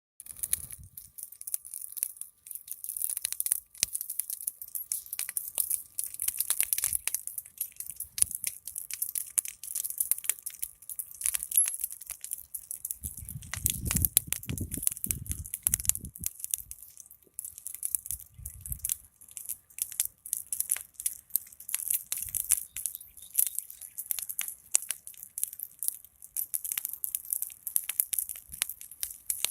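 Large fire crackling steadily, with dense irregular pops and a steady hiss. A low rumble comes in about halfway through for a few seconds.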